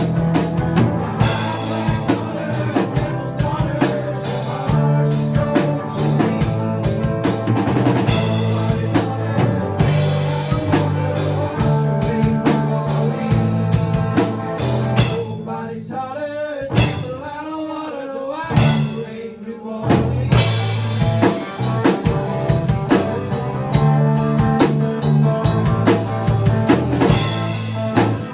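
Live rock band playing an instrumental section, with drum kit, bass and guitar. Around the middle the band drops out for a few seconds, leaving a single wavering, bending lead line, then the drums and the full band come back in.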